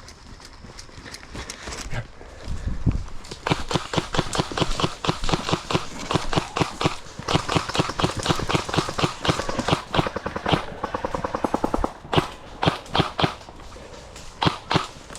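Airsoft guns firing: fast strings of shots that start about three seconds in and come quickest around the middle, then thin out to separate shots near the end.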